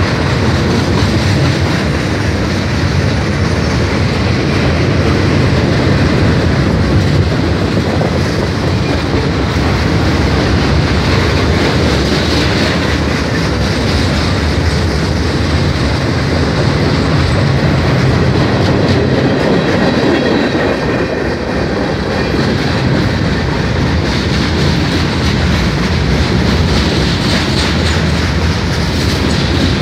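Freight cars of a long mixed freight train rolling past close by: a loud, steady rumble of steel wheels on the rails.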